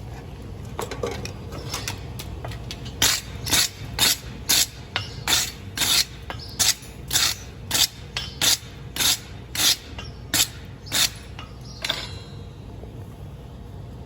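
Rhythmic rasping strokes, about two a second, starting about three seconds in and stopping near twelve seconds, like a steel tool drawn over a hard surface in short passes.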